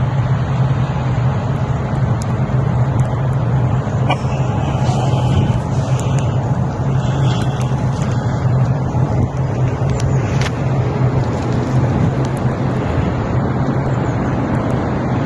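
Steady motor-vehicle noise: a low engine drone with road and tyre noise running evenly, and a few faint clicks.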